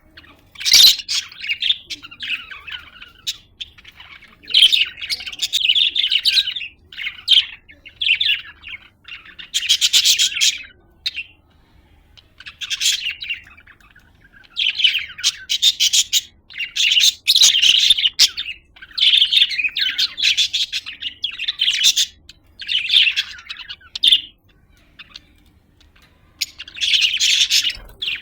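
Budgerigar chirping in repeated high-pitched bursts of a second or two each, with short pauses between them and a longer pause near the end.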